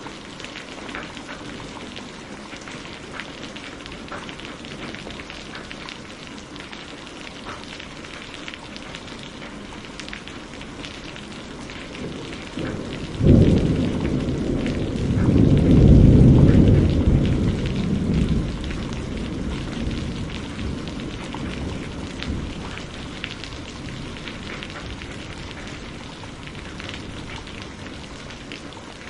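Steady rain falling. About 13 seconds in, a clap of thunder breaks in and rolls into a deep rumble that swells for a few seconds, then slowly fades back under the rain.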